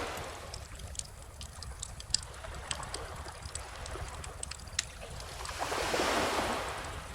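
Wood bonfire crackling with frequent sharp pops, over small ocean waves washing ashore; one wave swells up and washes in about six seconds in, then fades.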